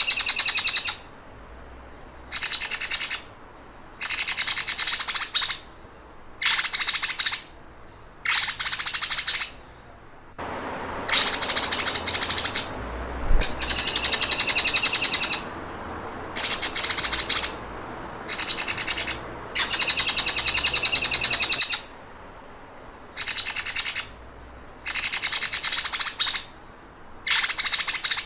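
Songbird singing the rapid, mechanical 'sewing machine' trill used as training song for caged songbirds. It comes in bursts of about a second each with short pauses between them, and there is a steady hiss under the middle part.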